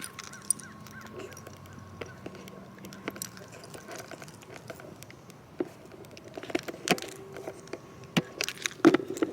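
A run of irregular sharp clicks and light knocks, growing louder and more frequent in the last few seconds.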